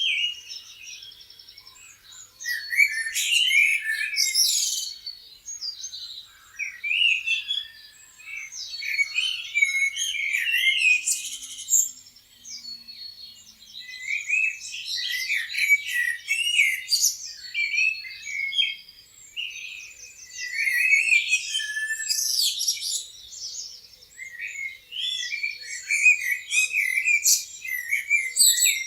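Several songbirds chirping and singing together, in overlapping bursts of high, quick notes every few seconds with short lulls between.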